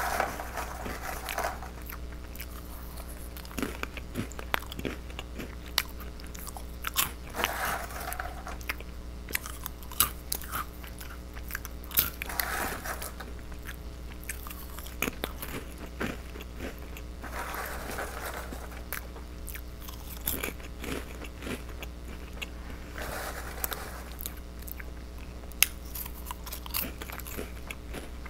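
Off-brand goldfish crackers being chewed close to the microphone: many small, sharp crunches, over a steady low hum.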